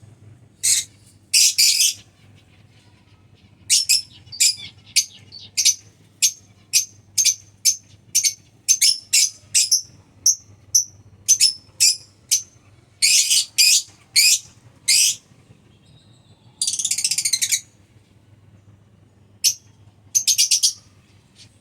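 Albino black-eyed lovebirds calling: a run of short, shrill chirps at about two a second, broken by a few longer, buzzy chattering bursts.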